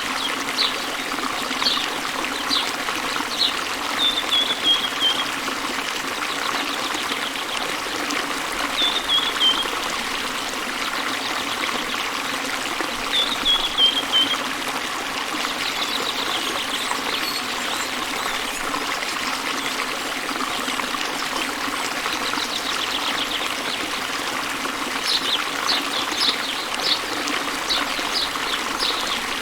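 Waterfall rushing steadily, with birds chirping over it: a few short chirps at the start and again near the end, and three brief falling phrases in between.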